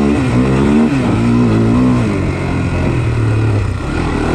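Honda 400X ATV's single-cylinder four-stroke engine running on the trail, its revs rising and falling for the first two seconds, then holding steadier.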